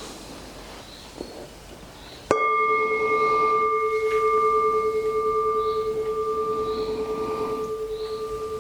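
Meditation bowl bell struck once about two seconds in. It rings with a steady low tone and higher overtones that pulse slightly and slowly fade. A fainter ring from an earlier strike dies away before it.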